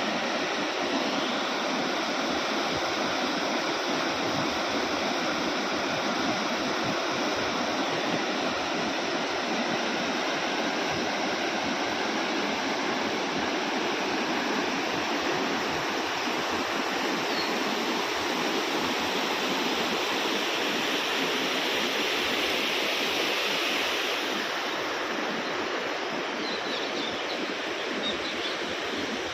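Steady rush of flowing stream water, with a few faint high chirps in the second half.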